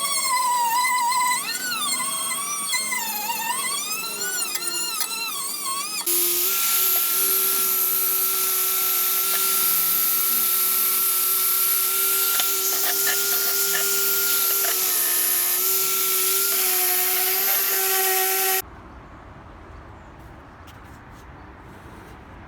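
High-speed small power tool whining, its pitch wavering up and down for the first few seconds. After a sudden cut it runs at a steady pitch with a hiss, as when grinding or sanding metal. It stops abruptly a few seconds before the end, leaving faint clicks and handling sounds.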